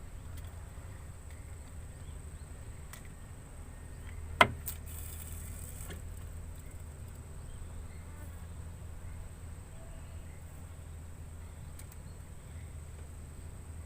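Insects droning steadily in one thin high tone over a low outdoor rumble, with one sharp click about four seconds in, followed by a brief rustle.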